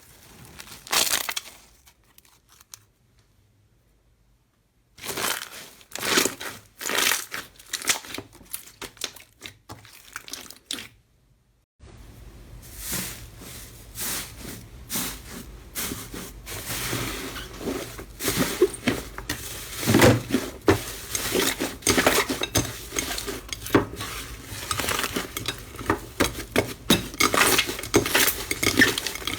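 Slime being squeezed, poked and pressed by hand, giving a dense run of small clicks, pops and crackles. The sound breaks off twice and picks up again, the last stretch over a faint steady hum.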